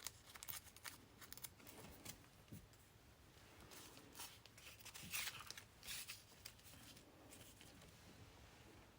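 Paper being torn by hand in short, faint rips and rustles, ragging the edge of a cut-out paper leaf; the clearest tears come about five and six seconds in.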